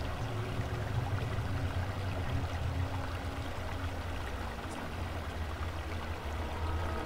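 Steady low rumble under a constant rushing hiss, a dark ambient soundscape laid over the film. Faint held music tones come in near the end.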